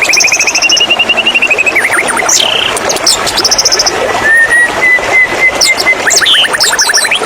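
White-rumped shama (murai batu) singing: fast trills, short high whistles and chirps, with a held note in the middle, over the steady rush of running water.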